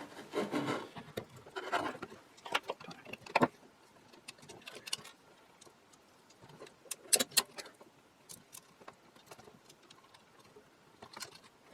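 Intermittent small clicks, taps and scrapes of hand tools and metal parts being worked on the underside of an antique wooden-cased radio, in clusters near the start and again about seven seconds in.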